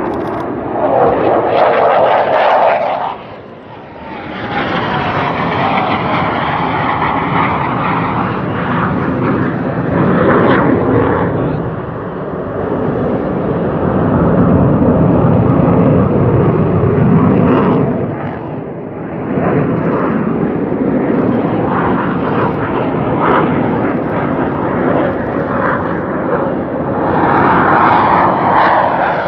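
U.S. Navy Blue Angels F/A-18 Hornet jets flying past, a loud jet roar that swells and fades in waves. It drops away briefly about three seconds in and again about nineteen seconds in, then swells strongly again near the end.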